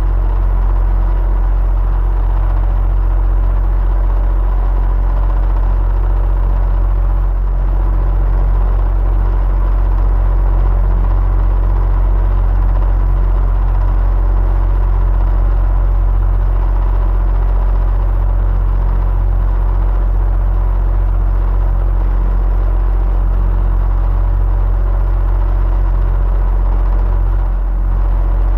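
Electric fan running steadily: a constant whir over a strong low hum, with faint steady tones above it.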